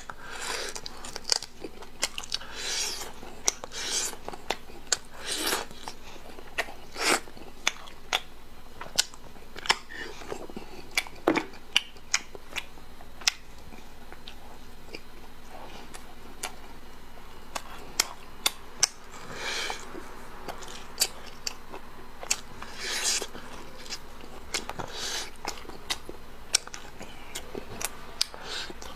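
Close-miked eating of braised pork: many sharp, wet mouth clicks and smacks, with a few longer noisy chewing and sucking passages between them.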